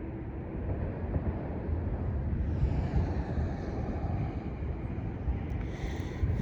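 Wind rumbling on the microphone outdoors, a steady low buffeting, with a faint higher sound coming in about two and a half seconds in and a few light clicks near the end.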